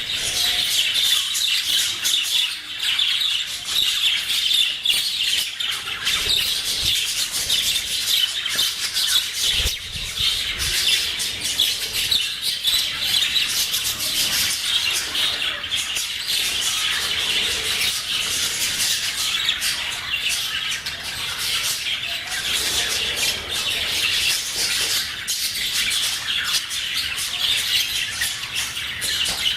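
English budgies (show-type budgerigars) chattering continuously, a dense run of rapid chirps with frequent squawks.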